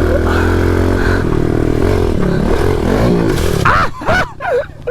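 Pit bike engines running and revving, their pitch rising and falling as the bikes ride. Near the end, a short untranscribed vocal sound, like a shout, rises over the engines.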